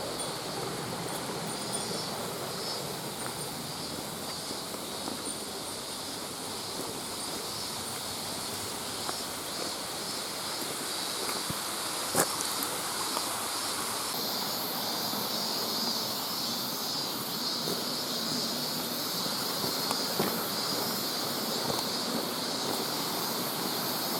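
Steady rushing of a mountain stream flowing beside and over the trail. A higher hiss grows louder about halfway through, and a few sharp clicks come from the old video camera's unsteady monitor mechanism.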